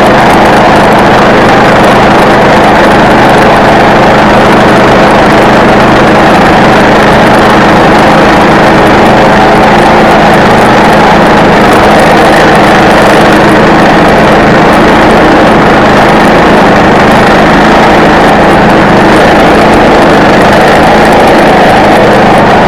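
Engine of a log-milling saw running loud and steady as it cuts through a log, with an unchanging engine hum throughout.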